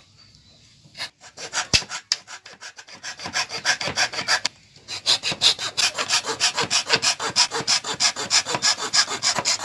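Wood being worked by hand with rapid back-and-forth rasping strokes, about four or five a second. After a quiet start the strokes begin about a second in, stop briefly past the midpoint, then run on steadily.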